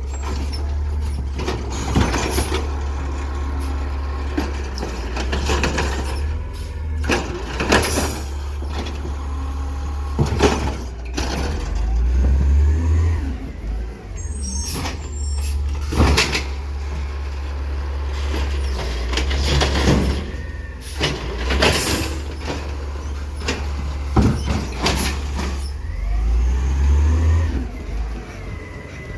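Garbage truck running with a steady low engine rumble, with a dozen or so sharp clanks and bangs through it and an air-brake hiss.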